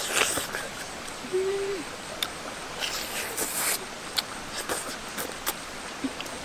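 A bird's single low hooting note, held steady for about half a second, against scattered sharp clicks and crackles and brief hissing.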